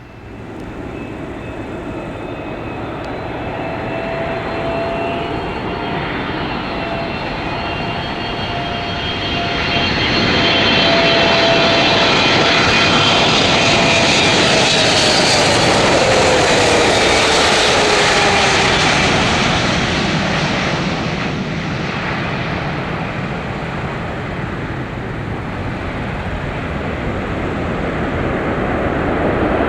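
Boeing 777F freighter's twin turbofan engines on landing approach: jet whine and rumble growing louder as it nears, with a steady tone that falls in pitch as it passes, about halfway through. The noise then eases before building again near the end.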